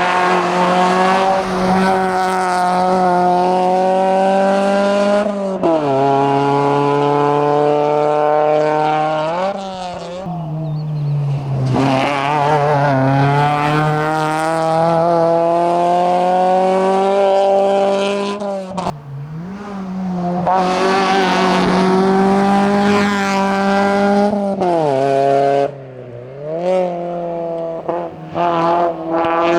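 Opel Corsa GSi race car engine driven flat out up a hillclimb. It revs up in each gear, and the pitch drops sharply at each of several upshifts and downshifts. It fades briefly twice, once around the middle and again near the end.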